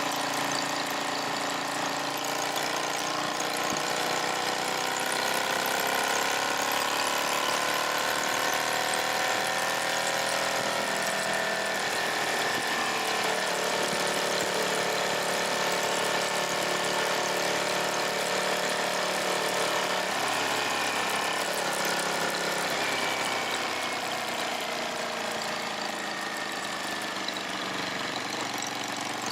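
Motorcycle engine running steadily, its pitch rising slowly over several seconds, then changing and settling at new levels a few times as the throttle and speed vary.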